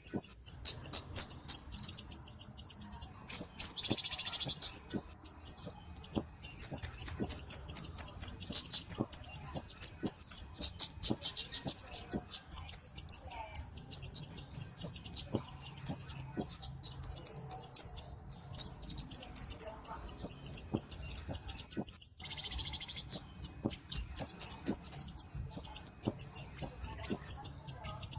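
Kemade cabe-cabean bird calling: long runs of rapid, very high-pitched chirps, many per second, broken by a few short pauses.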